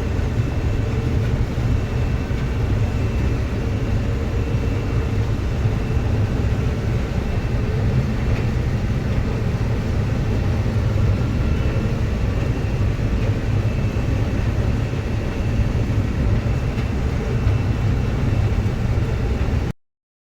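Truck engine running steadily with a deep low rumble, cutting off suddenly near the end.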